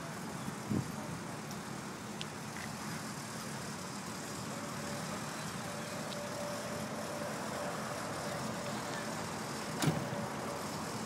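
Cars idling and creeping at low speed, over a steady hiss of outdoor noise. Two short thumps, about a second in and again near the end.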